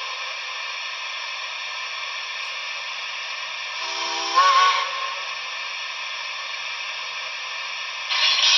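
Sound decoder of a Trix HO Southern Pacific Berkshire model steam locomotive playing a steady steam hiss from its small speaker. There is a short steam-whistle toot about four seconds in and a louder burst of hiss near the end.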